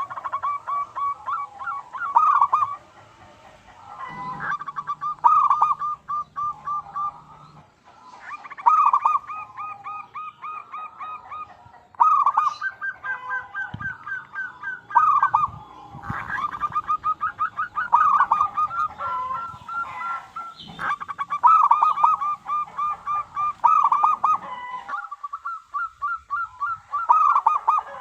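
Zebra dove (perkutut) cooing: repeated phrases every few seconds, each a loud opening note followed by a fast run of short rolling notes.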